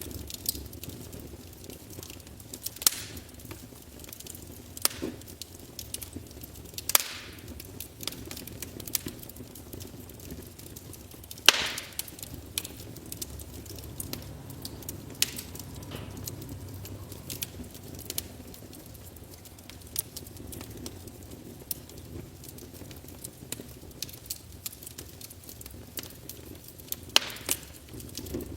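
Wood fire crackling in a fireplace: irregular sharp snaps and pops a few seconds apart over a low steady hiss of the flames, the loudest snap about halfway through.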